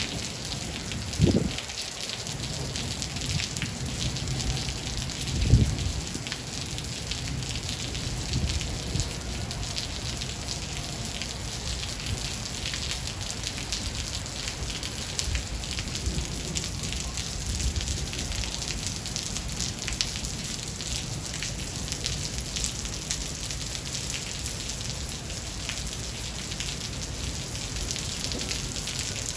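Steady rain falling, a dense patter of drops on a surface. Two brief low thumps come in the first six seconds.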